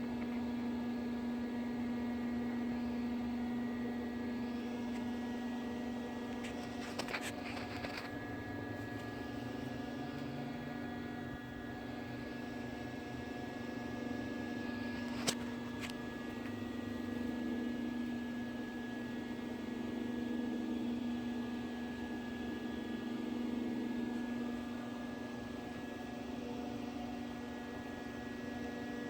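A steady electrical hum. A few faint clicks come about seven seconds in, and one sharper click comes about halfway through.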